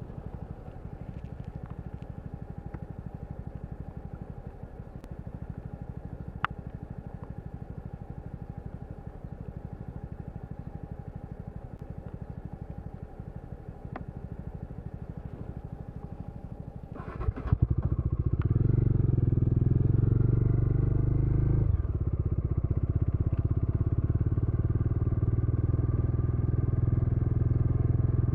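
Motorcycle engine running at a steady low idle with a fine rapid beat; about seventeen seconds in it rises sharply and runs much louder under throttle, dips briefly a few seconds later, then holds steady.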